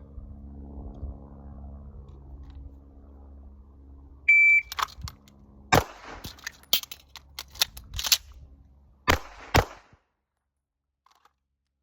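A shot timer beeps once about four seconds in, then a Walther PDP pistol fires a string of shots with a crisis (emergency) reload in it: several shots, a longer gap, then two quick final shots near the end. A steady low hum runs before the beep.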